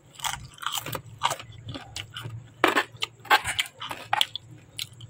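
A person chewing a mouthful of tahu tek close to the microphone, with irregular crisp crunches from the lightly boiled bean sprouts.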